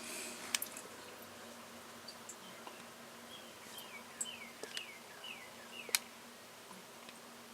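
Quiet room with a faint steady hum and a few light clicks; in the middle, a quick run of about six short, high, falling chirps from a small bird.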